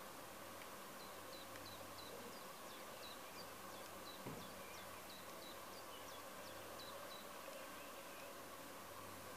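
Small songbird chirping in the background: a run of short, high, downward-flicking chirps, about three a second, over a faint steady hum. A single soft knock about four seconds in.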